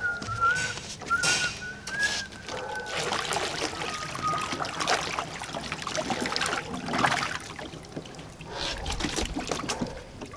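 Water splashing and trickling from a backyard waterfall fountain, surging unevenly, with a thin wavering whistle-like tone over the first few seconds.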